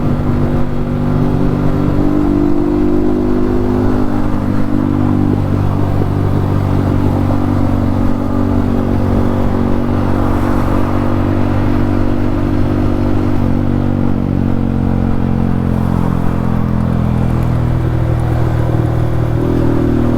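Yamaha MT-15's 155 cc single-cylinder engine running through an Akrapovic aftermarket exhaust while riding, the engine note rising and falling with the throttle; it climbs about two seconds in and again near the end.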